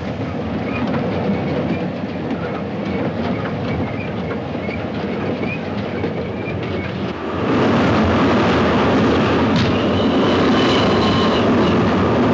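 Passenger train running along the track, its wheels and carriages making a steady rattling rumble over the rails; the noise gets louder about seven and a half seconds in.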